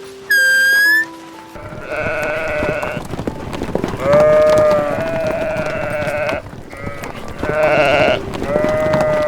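Sheep bleating, a run of four drawn-out calls of about one to two seconds each. A short, high, whistle-like tone comes first, just before them.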